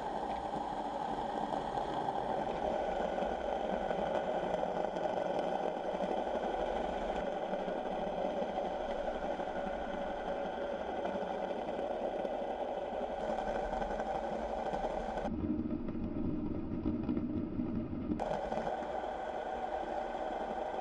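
A steady mechanical hum with hiss, like an engine, its tone shifting abruptly a few times.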